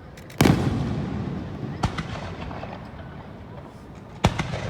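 Aerial fireworks shells bursting: a loud boom about half a second in that rumbles away over the next seconds, a sharper crack near two seconds, and another bang near the end.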